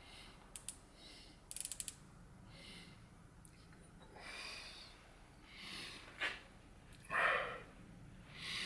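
A quick run of about eight ratchet clicks, like a micrometer's ratchet thimble closing on the work, after two single clicks. Soft breaths around it, and a short knock about six seconds in.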